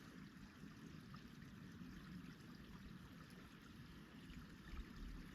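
Near silence: faint, steady outdoor background noise in woods.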